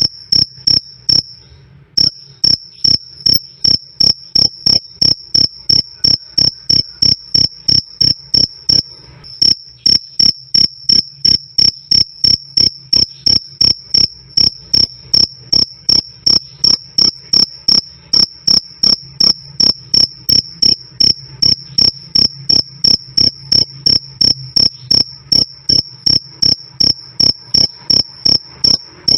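Male cricket (jangkrik) chirping loudly and clearly, a high-pitched "krik" repeated at a steady pace of about three chirps a second. It breaks off briefly twice: about a second in and about nine seconds in.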